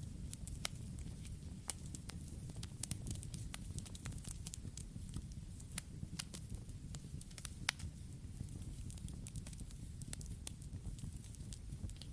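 Campfire burning, with irregular sharp pops and snaps over a steady low rumble of flames.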